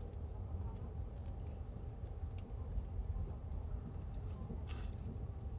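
The 285 series Sunrise Izumo/Seto sleeper train running, heard inside the cabin: a steady low rumble with faint scattered clicks and a brief hiss about five seconds in.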